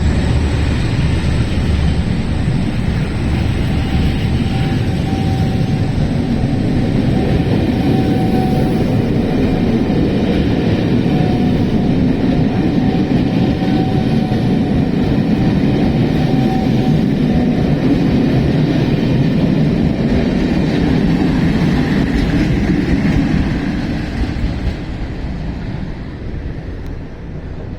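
British Rail Class 37 and Class 20 diesel locomotives with their English Electric engines working hard, the 37 thrashing and the 20s singing, in one loud, steady diesel clatter. A steady whine runs through the middle, and the sound fades away over the last few seconds as the train moves off.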